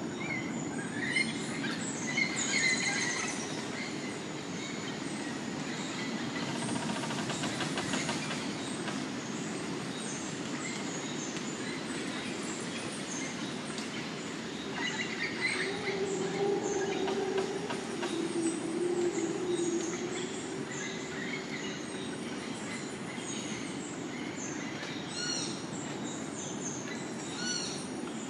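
Tropical rainforest ambience: a steady low rumble under scattered bird chirps and calls, with a short run of quick, falling high notes near the end.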